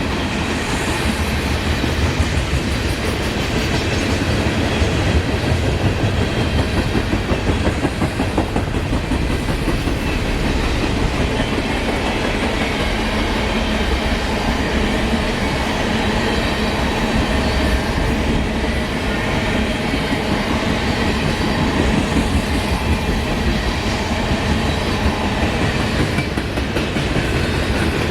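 CSX freight train rolling past, the steady rumble and clatter of its cars' wheels over the rails.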